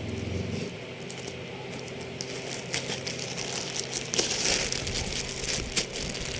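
Parcel packaging crinkling and rustling as it is opened by hand, in irregular crackles that thicken about two seconds in and are busiest near the end.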